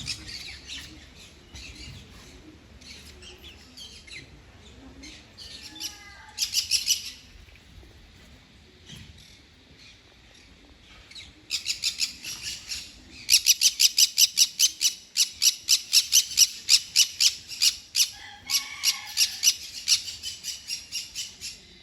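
Birds chirping: a short burst of high chirps, then from about halfway a long run of sharp, rapid chirps, about five a second, that carries on until near the end.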